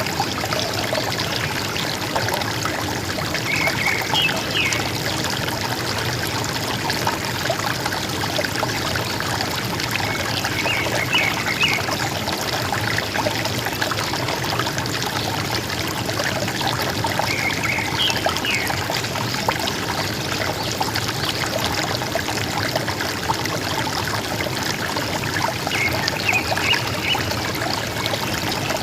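River water flowing steadily, with a forest bird giving short bursts of high calls four times, roughly every seven seconds.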